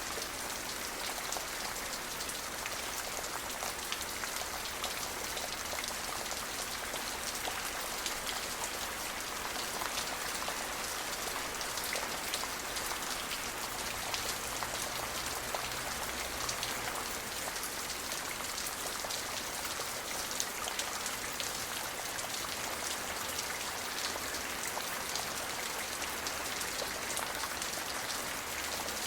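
Steady rain falling, with a dense patter of drops striking a surface and no thunder.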